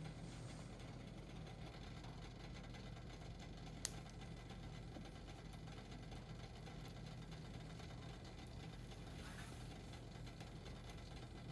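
Wood fire crackling faintly, with one sharp pop about four seconds in, over a steady low hum.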